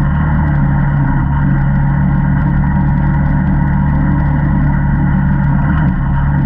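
Single-cylinder ATV engine running at a steady throttle while riding a trail, with an unbroken low drone.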